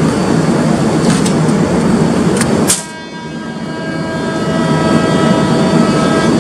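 Steady rumble and hum of a standing passenger train, with a few clicks in the first three seconds. After a sudden dip about three seconds in, a steady whine of several tones sounds over the rumble as it builds back up.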